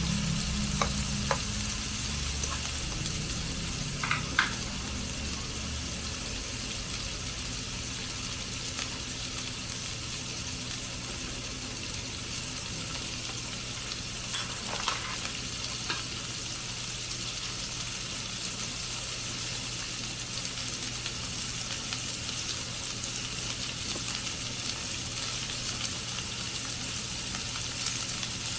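Cubes of beef filet steak with sliced onion sizzling steadily in a nonstick frying pan, with a few light clicks near the start and again about halfway through.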